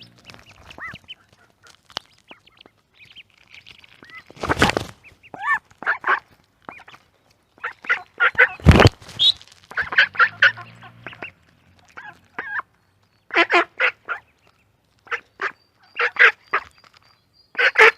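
Ducks quacking: a run of short, harsh quacks coming in bouts, with the loudest calls about a quarter and halfway through.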